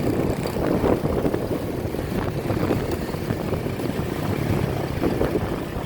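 An engine running steadily, a constant low hum mixed with wind and water-like noise.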